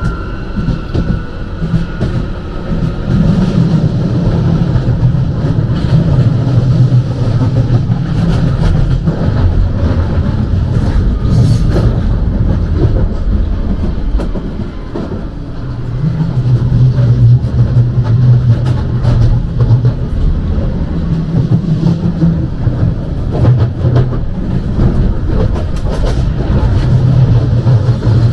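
London Underground Jubilee line train running between stations: a steady rumble of wheels on the rails with frequent small clicks, and a faint falling whine in the first moments. About halfway through the rumble briefly drops, then comes back louder.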